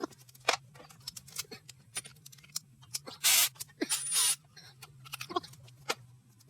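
Hand tools and metal engine parts clinking and knocking during engine disassembly, with two short noisy rasping bursts about three and four seconds in, over a faint steady hum.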